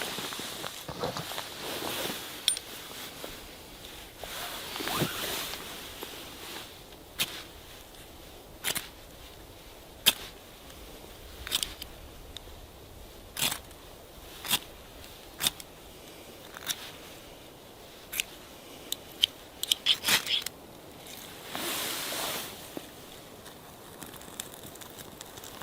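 A series of sharp, separate snaps and clicks at irregular intervals, roughly one every one to two seconds, with a quick run of them near the end.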